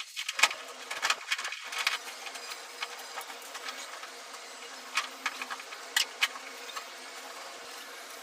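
Irregular sharp clicks and knocks over a steady hiss, clustered in the first two seconds and again about five and six seconds in.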